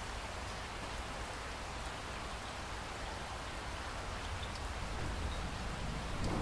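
Steady rain falling, an even hiss with faint scattered drop ticks, swelling slightly toward the end.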